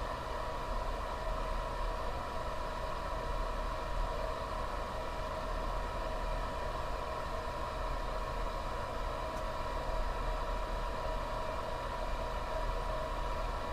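Steady electrical hum and hiss with a faint high whine, unchanging throughout.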